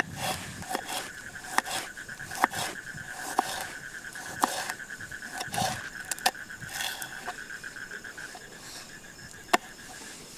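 A steady, high-pitched, finely pulsing trill of a calling night animal, stopping about eight seconds in, with scattered sharp clicks and knocks throughout, one louder click near the end.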